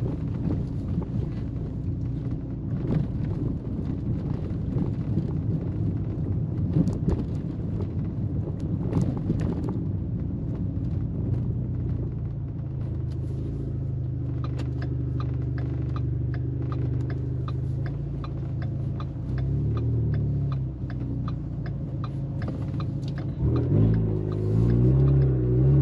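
Ford Fusion's turbocharged engine and drivetrain heard from the cabin on a road drive: a steady drone at cruise with a light regular ticking through the middle, then the engine revving up near the end under acceleration. No rumble or bearing noise comes from the rear differential, which now runs quiet.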